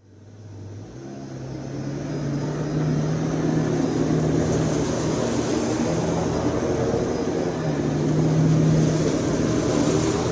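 Vacuum cleaner motor starting and spinning up over about two seconds, then running steadily with a low hum and a rushing airflow.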